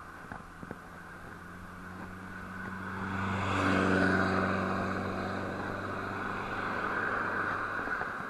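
Engine of a passing motor vehicle, a steady low hum that swells to its loudest about four seconds in and then eases off slightly.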